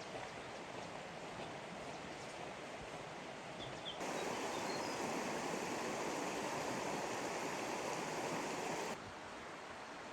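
Steady rush of flowing floodwater. It gets suddenly louder about four seconds in and drops back just before the end.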